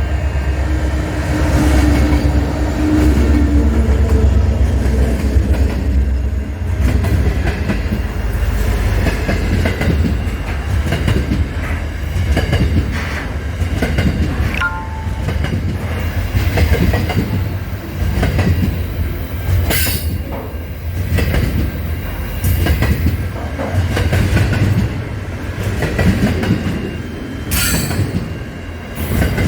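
Train running on the rails: a heavy low rumble with irregular clacks from the wheels over the track.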